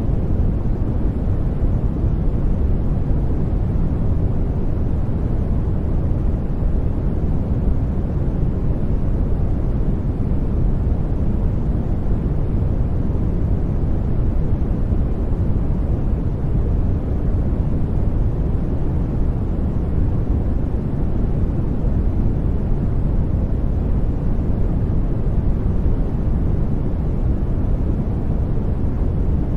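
Continuous sleep noise track: a steady, even hiss weighted heavily toward the low end, deep and muffled rather than bright, with no changes.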